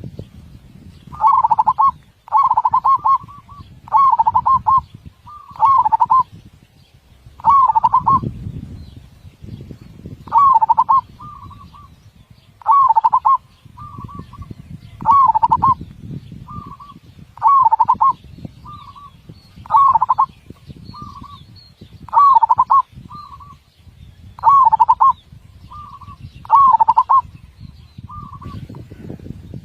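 Zebra dove (perkutut) cooing: a rolling phrase of quick coo notes, deep and closely spaced, repeated about every two and a half seconds, with a short single coo in the gaps between phrases. A low rumbling background noise runs underneath.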